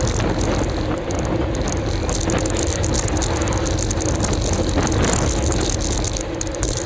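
Steady riding noise from a moving bicycle on the road: wind on the microphone and tyre and road rumble, with faint ticking.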